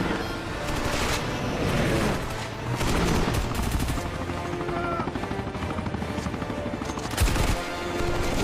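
Action-film sound mix: helicopter rotors beating under bursts of automatic gunfire and a dramatic orchestral score, with a hard hit a little after seven seconds in.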